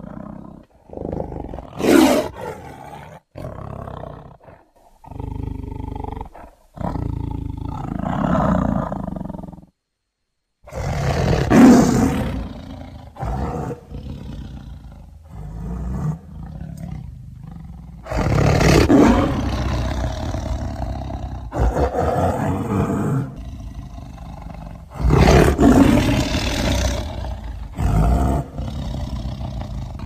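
Tigers roaring: a string of separate roars, one after another with short gaps between them and a brief silence about ten seconds in.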